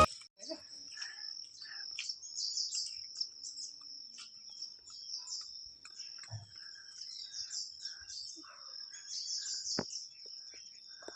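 Outdoor ambience of insects chirring steadily in a high pitch, pulsing now and then, with birds calling in short notes. A single sharp click sounds near the end.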